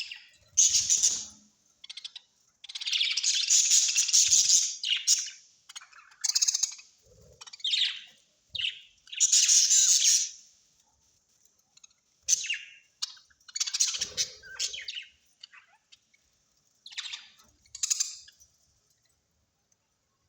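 Parrots calling in a string of harsh chattering and squawking bursts, some lasting a second or more, with short pauses between them.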